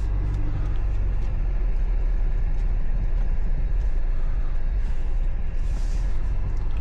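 Steady low rumble of a car, heard from inside the cabin, with a brief hiss about six seconds in.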